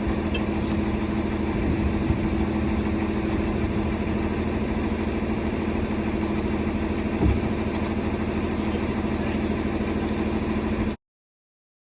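John Deere 4230 tractor's diesel engine idling steadily, with a single knock about seven seconds in; the sound cuts off abruptly about eleven seconds in.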